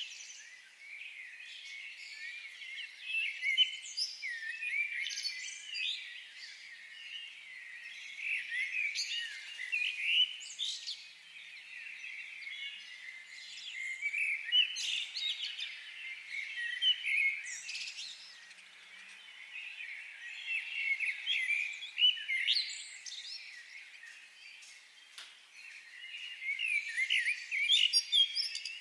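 Several birds calling and singing together in a forest chorus: many short high chirps and trills overlapping, coming in waves every few seconds.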